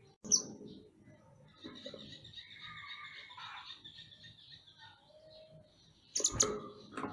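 Mantenan songbird calling: a sharp high chirp just after the start, scattered twittering through the middle, and a louder burst of calls about six seconds in.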